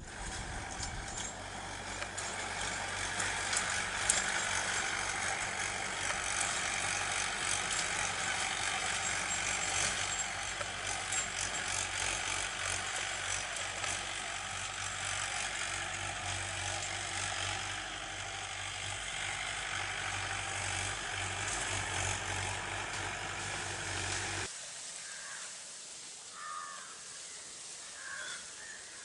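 A steady rushing noise with a low hum beneath it, cutting off suddenly about 24 seconds in. A few faint bird calls follow near the end.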